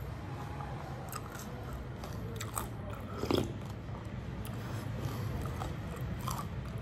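Chewing and crunching panipuri, the crisp fried puri shells cracking between the teeth in scattered short crunches, with one louder crunch about halfway through.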